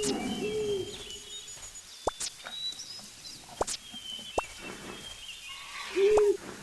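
Birds calling: low, arched cooing calls, a pair at the start and again near the end, over higher chirps and whistles, with a few sharp clicks between.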